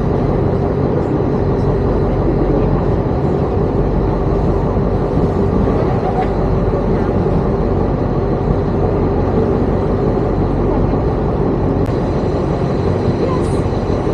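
Tour boat's engine running at a steady level, a constant low hum with noise over it.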